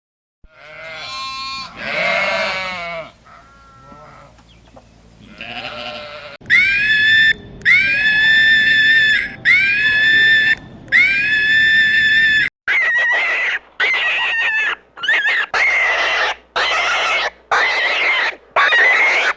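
A sequence of animal calls. First come wavering calls, then four long, evenly repeated calls, then a quick run of short calls near the end.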